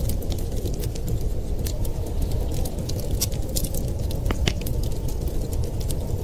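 Wood fire crackling in a fireplace: irregular sharp pops and snaps over a steady low rumble, with a couple of brighter pops about four seconds in.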